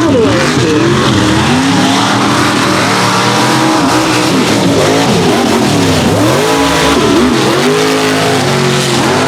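Mega truck engines racing, revving up and down hard again and again, with more than one engine heard at once.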